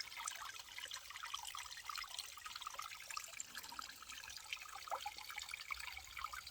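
Water trickling steadily, a continuous patter of small drips and splashes.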